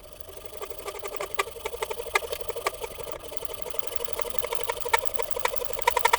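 Hand saw cutting a slot through aluminium bar stock, a fast rasping of the teeth with many small clicks. It grows louder as the cut goes on and stops at the very end.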